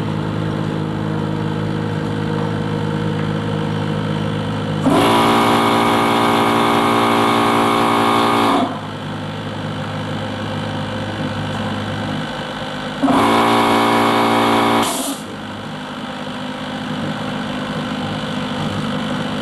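Two air compressors running. An oil-free axial piston compressor with water-bearing rotors runs with a steady hum throughout. A louder, harsher conventional piston compressor switches on twice: about five seconds in for nearly four seconds, then about thirteen seconds in for two seconds, each time stopping abruptly.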